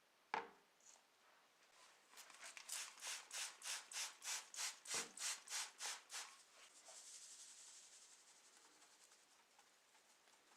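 A hand rubbing back and forth on a surface in quick even strokes, about three a second for some four seconds. It follows a sharp knock near the start, a dull thump falls midway through the strokes, and a soft hiss trails after them.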